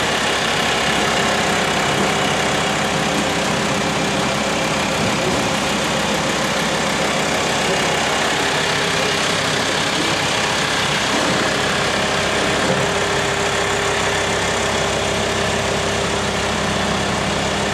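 Vehicle engine idling, a steady even drone that does not change in pitch.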